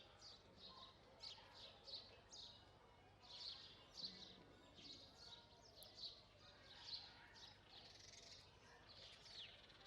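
House sparrows chirping: a faint, steady run of short chirps, about two a second.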